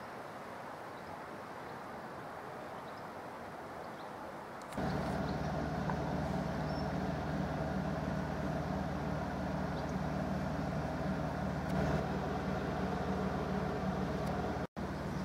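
Quiet outdoor background, then about five seconds in an abrupt cut to a louder, steady engine hum, like a car idling, with a brief dropout near the end.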